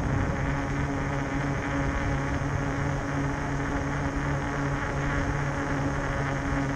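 Bafang 1000 W electric-bike motor on a fatbike humming steadily under power, over a steady rush of riding noise.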